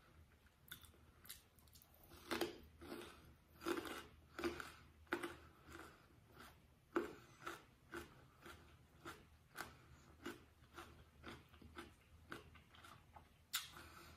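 Chewing a raw baby carrot with the mouth closed: a steady run of soft crunches, about two a second.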